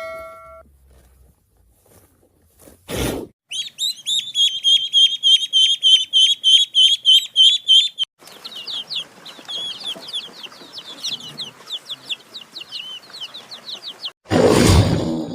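Chicks peeping: a fast run of high-pitched, repeated peeps, several a second, loud at first and then fainter over a light hiss. A short thump comes about three seconds in, and a loud noisy burst comes near the end.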